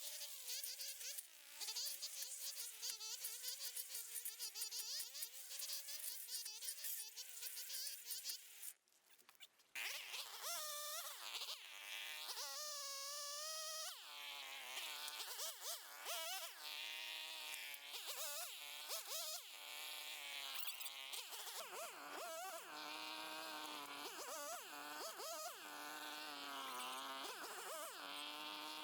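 Small petrol engine of a garden cutting tool running at high revs with a buzzing tone. The pitch holds steady at first, breaks off briefly about nine seconds in, then keeps dipping and recovering as the engine takes load and frees up.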